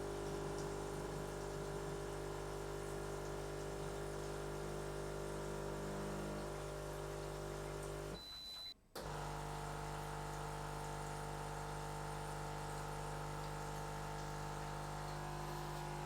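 Breville Barista espresso machine's pump humming steadily as it runs its automatic descaling cycle, pushing water through. The hum drops out briefly about eight seconds in, then carries on as before.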